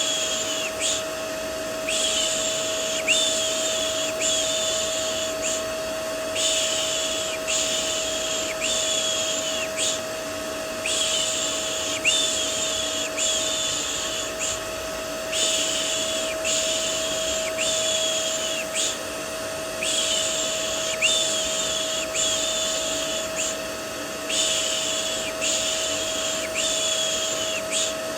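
Vacuum cleaner motor running with a steady hum, used as white noise. Over it, a voice makes soothing 'shh' sounds about once a second, in runs of three or four with short pauses between them.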